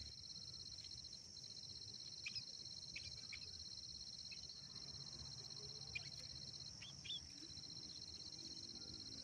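Field insects chirring steadily at a high pitch, with several short, sharp chirps from small birds between about two and seven seconds in.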